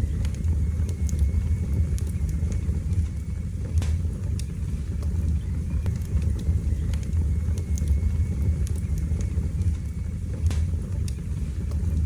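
Wood fire burning in a fireplace: a steady low rumble of the flames with scattered sharp crackles and pops, two louder pops about four seconds in and near the end.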